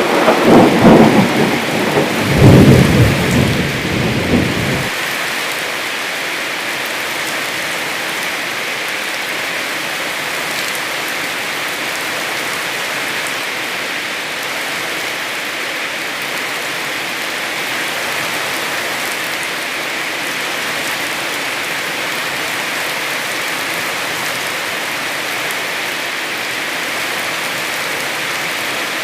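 Heavy rain falling steadily. A loud rumbling thunderclap fills the first few seconds and cuts off abruptly about five seconds in.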